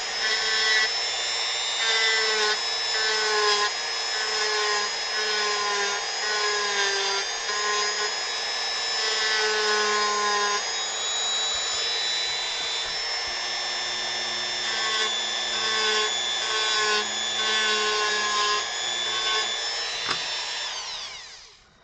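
Dremel rotary tool running at high speed with a small bit shaping wood, its whine dipping in pitch each time it bites into the wood and recovering. It spins down near the end.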